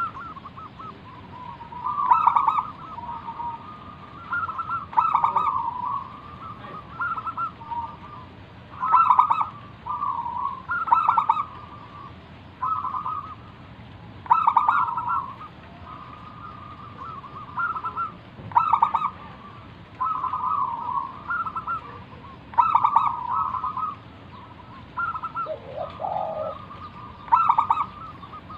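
Zebra dove singing its 'manggung' song: short phrases of quick, rolling coos, repeated about every one and a half to two seconds.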